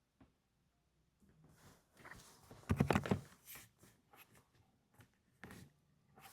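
Sparse, soft keystrokes on a mechanical keyboard with silenced cotton-candy switches: a few scattered muted clicks, with a quick cluster of strokes about three seconds in and another short one near the end.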